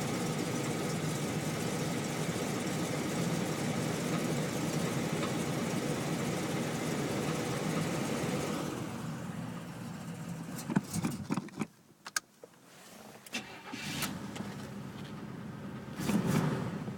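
The 1981 Buick Electra 225's carbureted 4.1-litre V6 runs steadily on a cold start. The sound falls away about nine seconds in, followed by a few sharp clicks and a short louder burst near the end.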